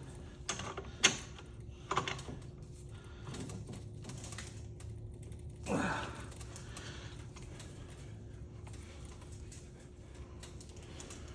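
Clicks and knocks of metal ceiling-fan parts being handled and twisted during disassembly, with a brief squeak falling steeply in pitch about six seconds in.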